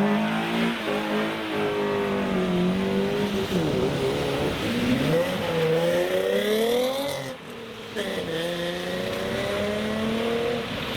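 A car engine accelerating hard away, its pitch climbing and falling back through gear changes, with a short lull about seven seconds in before it climbs again, over the hiss of tyres on a wet road.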